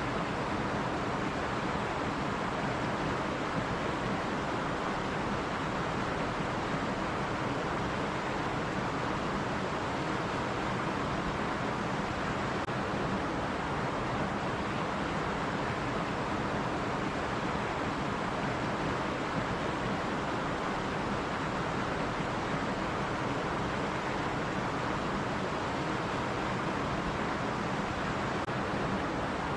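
Stream water running and rushing in a steady, even wash with no breaks.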